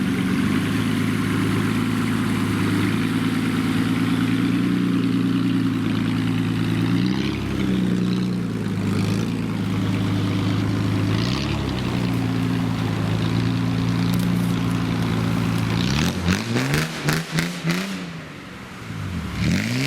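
A motor vehicle's engine running steadily at raised revs, its pitch dipping briefly twice. Near the end it revs up and down several times in quick swings, with some clatter.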